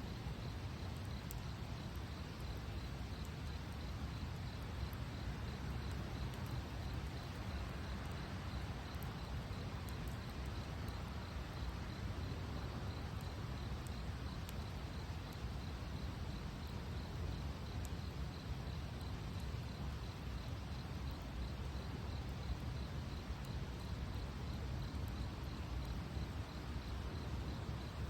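Wood campfire burning steadily, with scattered small crackles and pops over a low, even rumble of the flames.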